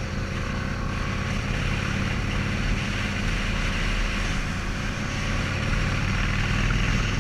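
Motorcycle engine running steadily at cruising speed, with a continuous rush of wind noise from riding.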